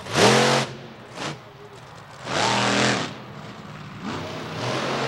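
Monster truck engine revving hard in about three bursts, its pitch sweeping up and down each time, between lower running.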